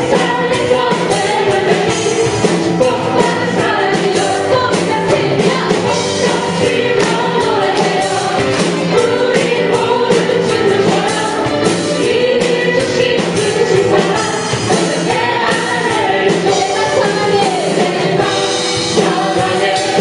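A live worship band and singers perform an upbeat Korean praise song, with sung melody over a steady drum beat.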